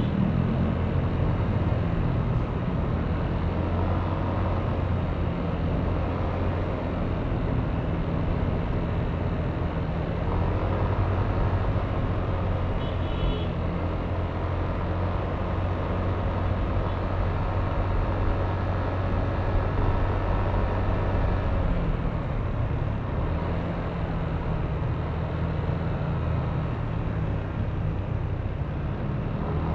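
Yamaha Aerox V3 scooter's 155 cc single-cylinder engine running steadily under way, with road and traffic noise. Its note changes about ten seconds in and again a little past twenty seconds.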